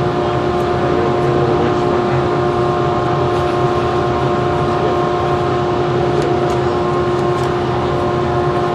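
Steady machine or engine drone with a constant, unchanging whine over a broad rumble.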